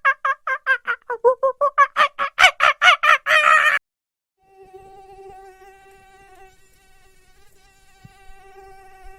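A rapid run of short animal calls, about five a second, ending in a louder, drawn-out call, then a faint, steady insect buzz for about five seconds.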